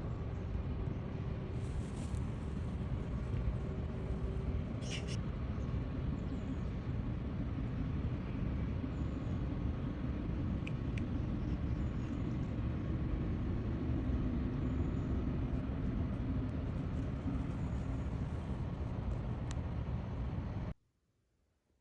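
Steady low rumble of vehicle or road-traffic ambience with a few faint short clicks, cutting off suddenly near the end.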